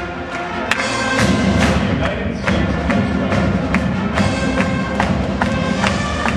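Marching band playing: brass holding pitched chords over a steady drum beat.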